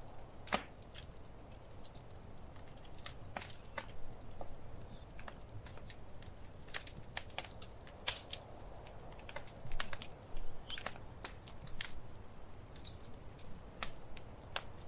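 Wood fire crackling in a fireplace: irregular sharp pops and snaps over a steady soft hiss of the flames.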